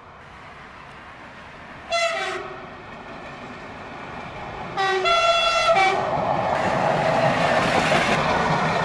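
Diesel railcar sounding its horn: a short blast about two seconds in, then a longer blast about five seconds in, followed by the loud noise of the railcar passing close by.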